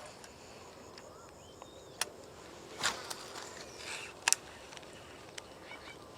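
Quiet outdoor ambience with faint small birds chirping, broken by a few sharp knocks or clicks about two, three and four seconds in, the last the loudest.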